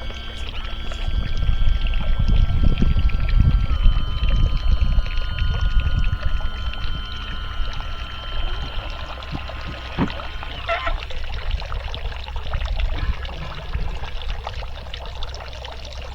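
Electric power-tilt motor whining steadily as the boat's engine tilts, with a slight change in pitch about four seconds in, stopping about ten seconds in. Water pours off the raised engine, loudest early on and then trickling and dripping.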